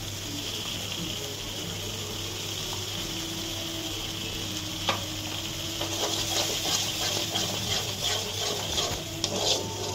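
Spice paste and tomato purée sizzling in hot oil in a kadai, while a steel spatula stirs and scrapes against the pan, with more frequent clinks and scrapes from about six seconds in.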